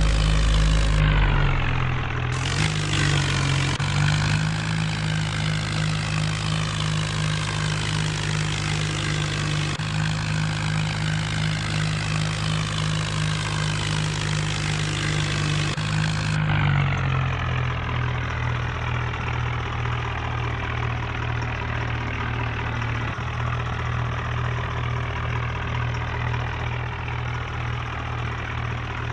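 New Holland tractor's diesel engine running steadily while pulling a loaded trolley, with a deep rumble dying away in the first couple of seconds; about two-thirds of the way through, the engine note drops slightly and stays lower.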